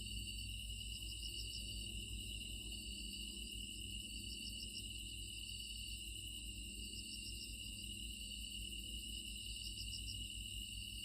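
Outdoor insect chorus: a steady high-pitched drone of insects with a short chirping phrase repeating about every two seconds, over a low background rumble.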